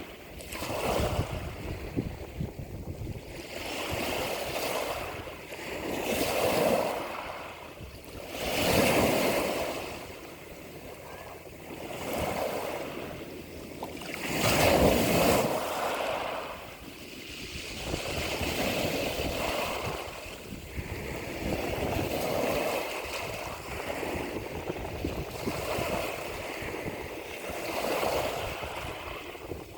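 Sea waves washing in, rising and falling in swells every few seconds, with the largest surges about a third and halfway through.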